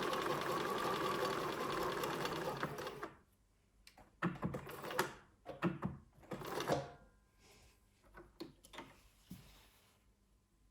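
Bernina 1230 sewing machine running steadily at speed with a fast, even stitching rhythm, stopping about three seconds in. A few separate knocks and clunks of handling follow.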